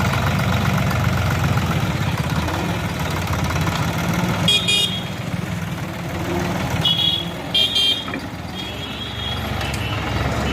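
A tractor engine running steadily, with three short vehicle horn honks around the middle, the last two close together.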